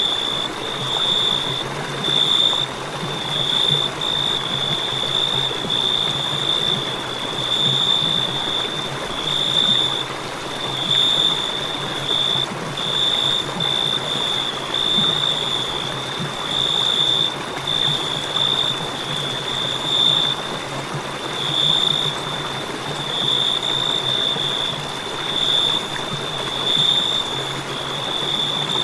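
Crickets chirping in a continuous high trill that swells and fades every second or two, over a steady low hiss.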